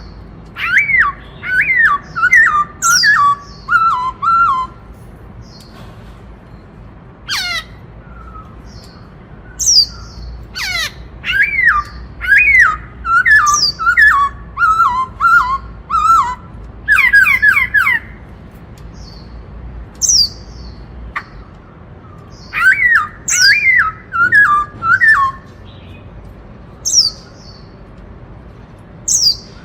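Black-throated laughingthrush singing loudly in repeated bouts of quick, descending whistled notes, its 'bắt cô trói cột' song type, with pauses of a second or a few seconds between bouts.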